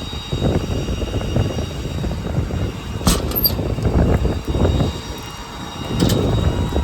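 Heavy diesel truck running with machinery working, a rough, uneven rumble with faint steady whines above it, broken by a sharp clank about three seconds in and another near the end.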